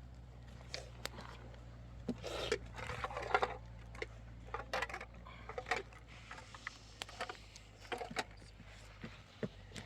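Irregular knocks, clatters and scraping, densest about two to three seconds in, over a steady low hum.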